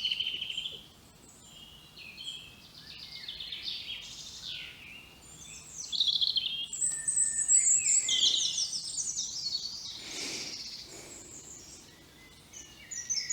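Woodland birds singing, several overlapping songs and chirps, with one loud, fast trilling song from about six to ten seconds in.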